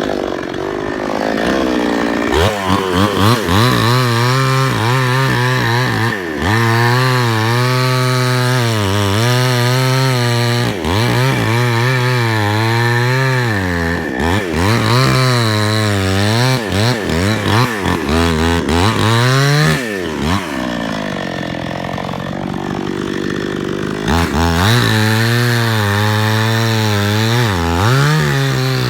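Chainsaw engine revving and cutting wood, its pitch wavering as the chain bites under load. It eases back to a lower, quieter run at the start and again about twenty seconds in, then revs up again a few seconds later.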